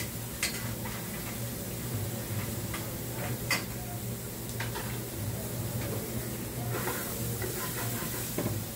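Sliced bell peppers and onions sizzling in two skillets over gas burners, with scattered clicks and taps of pans and utensils over a steady low hum. About seven seconds in the sizzling briefly grows louder and hissier as a pan is tossed.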